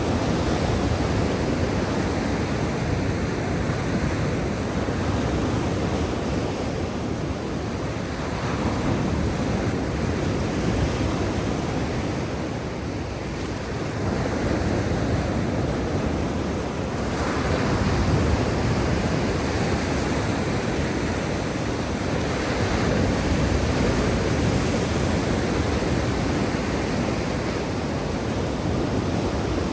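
Black Sea surf: waves washing in continuously, the rush swelling and easing every few seconds.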